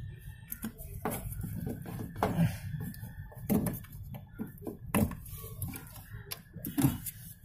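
Several sharp knocks and clicks of hands handling plastic and metal parts while pulling apart a top-loading washing machine's wiring connectors.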